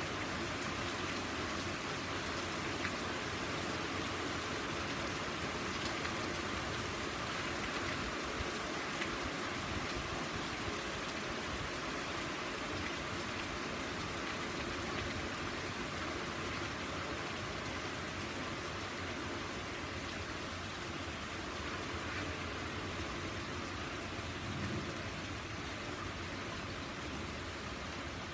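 Steady rain falling on a garden lawn, concrete path and wooden deck, an even hiss of drops that eases slightly toward the end.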